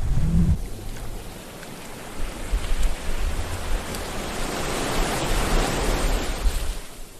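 Sea waves washing in: a low rumble at the start, then the wash swells to its loudest about five to six seconds in and ebbs away near the end.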